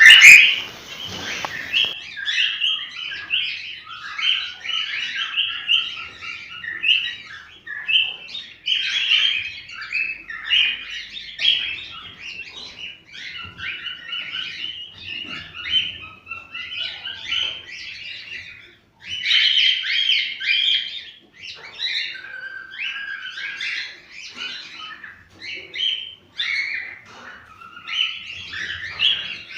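Cockatiels chirping and warbling almost without pause, many calls overlapping, with a brief lull about two-thirds of the way in. A sharp click sounds right at the start.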